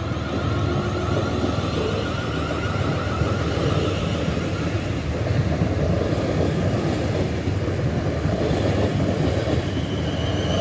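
Two coupled Class 444 Desiro electric multiple units passing over a level crossing as they pull away from the station: a steady wheel-on-rail rumble with a wavering traction-motor whine. A higher whine comes in near the end.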